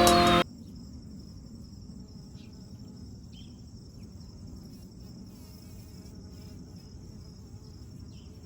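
Background music cuts off about half a second in, leaving a faint, steady high-pitched chirring of late-summer insects.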